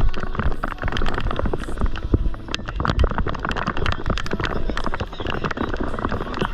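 Typhoon wind buffeting the microphone with a low rumble, and rain hitting close to it as a dense, irregular run of clicks.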